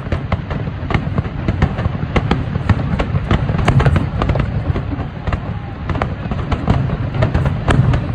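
Aerial firework shells bursting in a rapid barrage: many sharp bangs close together, several a second, over a continuous low rumble from the overlapping bursts.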